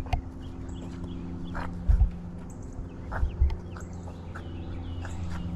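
French bulldogs playing, with short loud thumps about two seconds and three seconds in, over a steady low hum.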